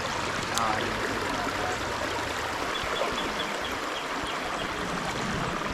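Small creek flowing over rocks: a steady, even rush of running water.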